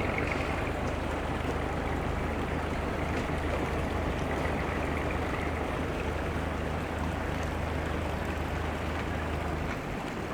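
A steady low engine hum over a wash of noise, stopping abruptly near the end.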